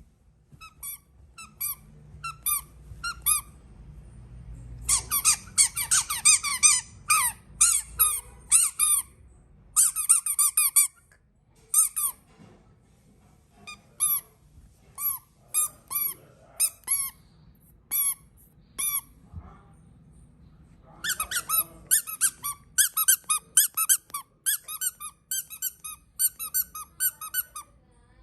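Baby's squeaky toys squeezed over and over, giving short high squeaks. They come singly about once a second at first, then in quick runs, with a short pause before a final long, fast run.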